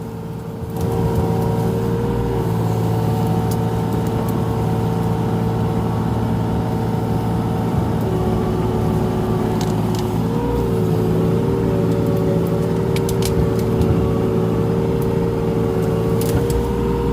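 Mini excavator's diesel engine running steadily under load, with a higher whine that shifts in pitch a couple of times as the machine is worked.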